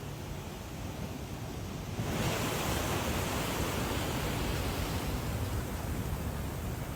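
Hurricane-driven surf washing up the beach: a steady rush of water and wind. About two seconds in, a wave surges in and the rush suddenly gets louder, then eases off slowly.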